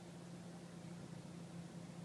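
Honda Fit Shuttle engine idling: a faint, steady low hum under hiss.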